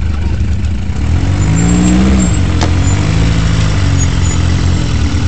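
Off-road 4x4 engine running under a low, steady rumble while crawling over rocks. It revs up and drops back about two seconds in, then rises and falls again more gently. A single sharp click or knock comes midway.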